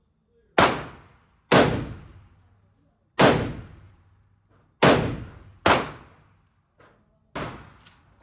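Six gunshots in an indoor firing range, fired at uneven intervals of roughly one to one and a half seconds. Each shot is sharp and dies away in a short echo.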